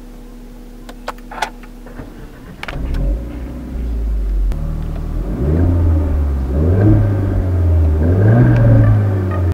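Renault Megane RS Cup's 1.8-litre turbocharged four-cylinder engine being started by push button: a few clicks, then the engine fires about two and a half seconds in and settles. From about five seconds in it is revved in several blips that rise and fall in pitch.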